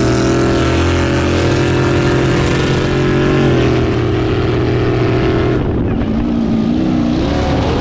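Engine held at high revs at full throttle in a drag race, a steady high pitch for about five and a half seconds. The throttle then comes off, and the pitch drops and wavers.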